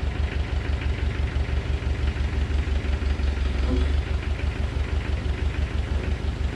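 Tractor-backhoe engine idling steadily with a fast, even clatter, held at low revs while the machine makes small lifting adjustments.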